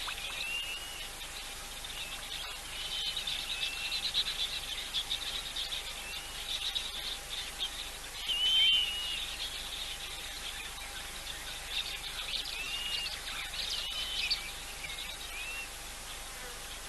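Outdoor bush ambience: a steady high buzzing and chirring of insects, with short, repeated whistled bird calls scattered through it, the loudest about halfway through. A faint steady hum sits underneath.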